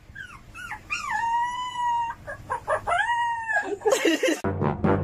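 A dog howling: several long, drawn-out calls that slide up in pitch and then hold. Near the end it gives way abruptly to a low, buzzy sound.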